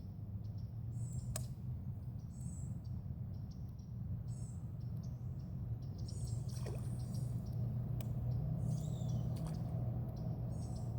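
Birds chirping in short, repeated high calls over a steady low hum, with a few sharp clicks.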